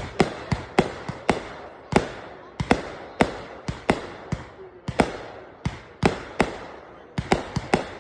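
Consumer fireworks going off in a rapid, irregular series of sharp bangs, about two or three a second, each followed by a short echoing tail.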